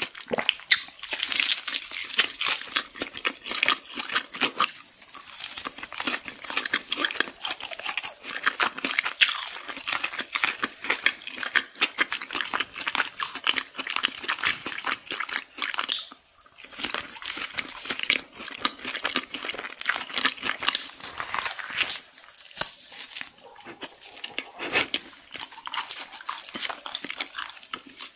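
Close-miked eating sounds: crispy fried chicken and fries being bitten and chewed, a dense run of crunches and chewing clicks with a brief pause about sixteen seconds in.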